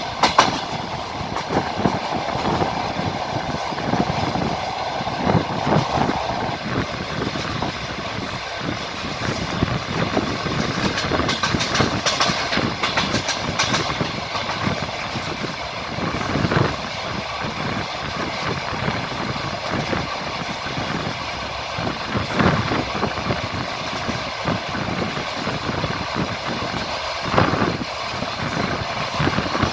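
Train running along the track: a steady rolling rumble with a quick run of wheel clicks at the start and a few single wheel knocks over rail joints later on.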